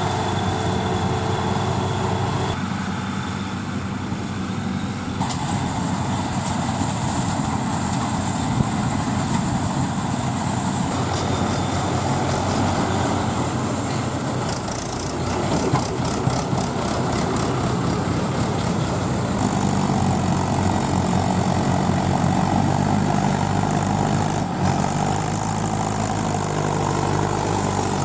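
Diesel tractor engine running steadily, its tone changing abruptly several times.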